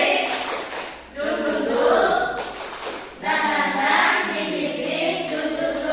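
A group of people singing together in short phrases, with brief pauses between them.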